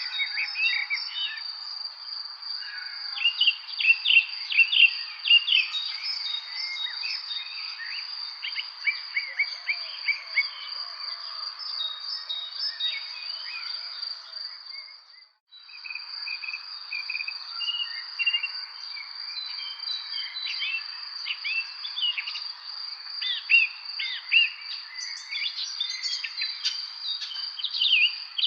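Many songbirds chirping and trilling in a spring evening chorus, over a steady high-pitched continuous tone. The sound drops out briefly about halfway through, then resumes.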